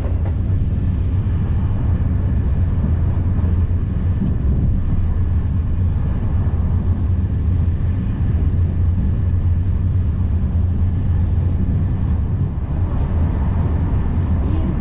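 Steady rumble and rush of a Corail passenger coach running at about 190 km/h, heard from inside the carriage, with a low drone under it.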